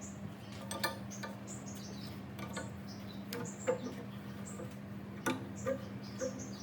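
Short high chirps repeating every half second or so, over a steady low hum, with a few sharp clicks or taps.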